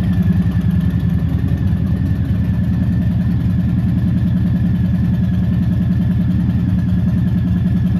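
2020 Harley-Davidson Softail Standard's Milwaukee-Eight 107 V-twin idling steadily with an even, fast low pulse.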